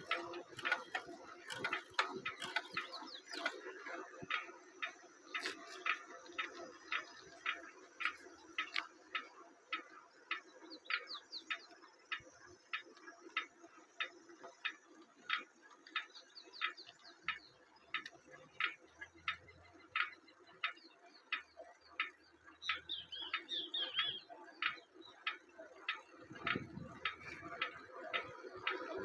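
A bicycle clicking rhythmically as it goes, about two sharp clicks a second with a faint squeak in some of them, the kind of noise a bike that needs maintenance makes.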